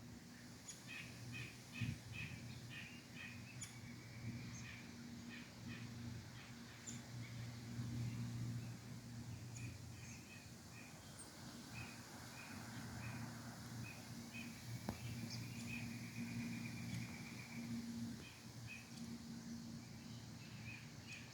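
Small birds chirping in many short, repeated notes with a couple of brief trills, over a faint steady low hum.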